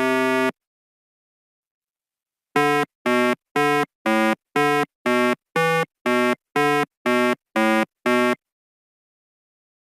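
Synthesizer music ends just after the start; after a pause comes a string of about twelve evenly spaced buzzy electronic beeps of one pitch, roughly two a second, that stops about eight seconds in.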